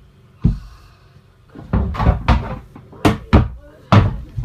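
A series of hollow knocks and thumps: one about half a second in, then a quick run of them through the second half.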